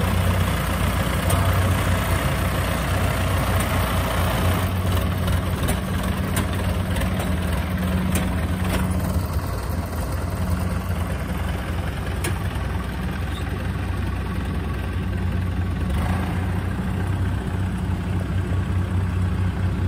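Diesel engine of a tracked farm tractor running steadily with a low, even hum.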